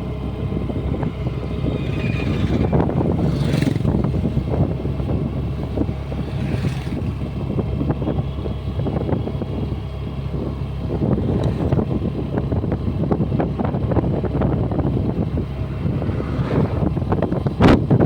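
Honda Dio 125 scooter's single-cylinder engine running steadily while the scooter is ridden along the road. A single sharp click comes near the end.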